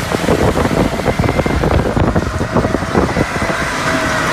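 Strong wind blasting and buffeting a microphone, a loud rough rushing that flutters rapidly.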